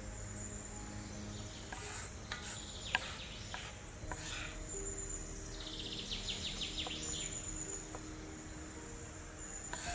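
Outdoor ambience: a steady high insect drone with birds chirping, one giving a rapid trill about six seconds in, and a few sharp clicks a couple of seconds in.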